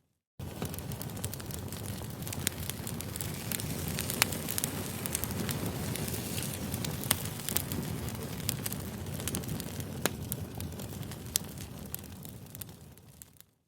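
Campfire crackling: a steady hiss of burning with frequent sharp, irregular pops and snaps.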